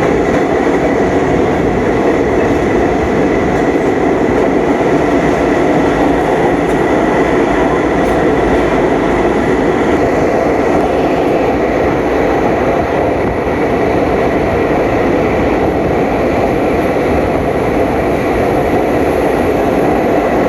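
Passenger train running, a steady loud rumble with no let-up.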